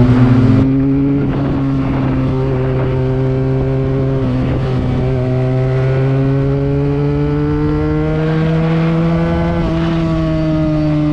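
Benelli TNT 300 parallel-twin engine with an aftermarket Akrapovic exhaust, under way on the road: the exhaust note climbs slowly in pitch as the bike gathers speed, then drops with an upshift about ten seconds in.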